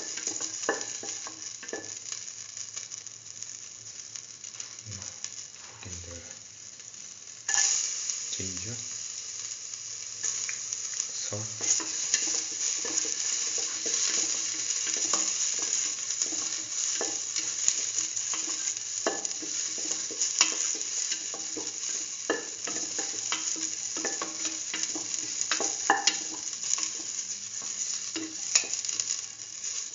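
Shallots frying in oil in a stainless steel pan, sizzling steadily while a spoon stirs them, with frequent clicks and scrapes on the metal. About seven seconds in, the sizzle suddenly grows louder as sliced ginger goes into the hot oil.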